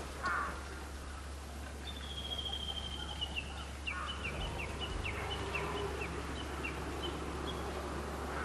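A bird calling high and clear: one long note held for about a second and slowly falling, then a run of about a dozen short downward-slurred notes, roughly three a second, over a steady low background noise.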